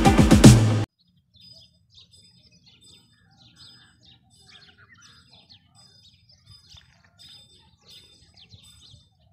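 Electronic background music that cuts off suddenly about a second in, followed by faint bird chirps repeating about twice a second.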